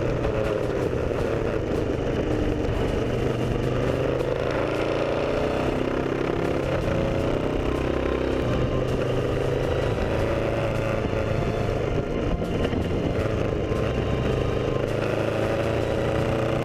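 Moto Guzzi Griso's V-twin engine running while riding. Its pitch falls and then climbs again as the bike slows and speeds back up, over steady road and wind noise.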